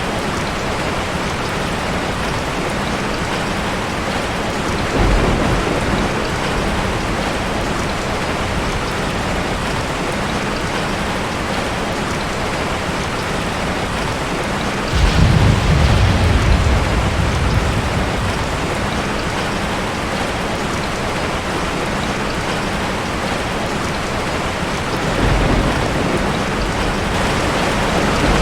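Steady rain falling, with low rolls of thunder: a short one about five seconds in, the loudest about halfway through lasting a few seconds, and another near the end.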